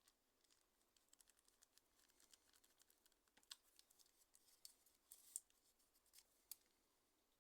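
Faint, irregular small clicks and ticks of hard plastic and metal parts being handled, as in taking apart a Nokia N95 8GB mobile phone by hand, with a few sharper snaps among them.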